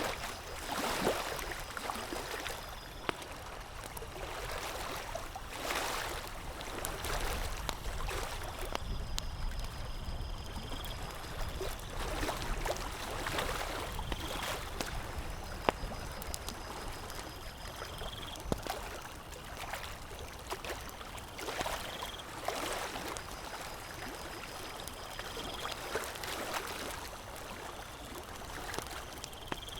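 Campfire crackling with sharp, irregular pops, over water lapping that swells and falls every few seconds.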